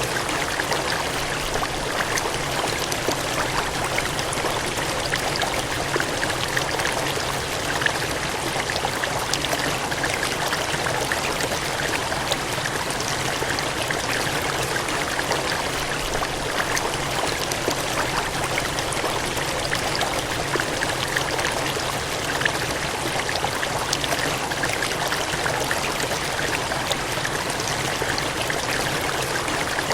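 Cascading water gushing in a steady, even rush with small splashes throughout.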